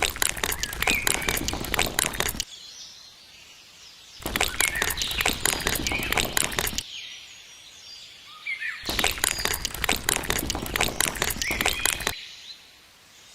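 Three bursts of dense crackling and clattering, each two to three seconds long, that start and stop abruptly. Birds chirp in the quieter gaps between them.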